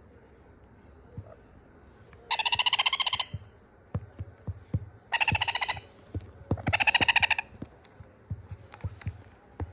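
Sun conure chick giving harsh, rapidly pulsed begging calls for more food, in three bouts of about a second or less each. Soft low knocks come between the calls.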